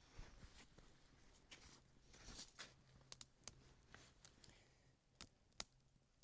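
Faint rustling and scattered sharp clicks and snaps of birch bark and kindling being handled while a campfire is laid.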